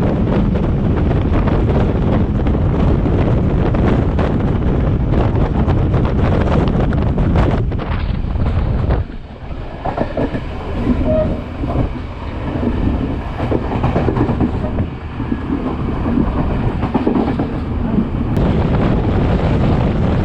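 Class S13 diesel multiple unit running at speed: a steady rush of wind on the microphone over the rumble of wheels on the track. About nine seconds in the rush drops away and the clatter of wheels over the rail joints comes through more clearly, until the loud rush returns near the end.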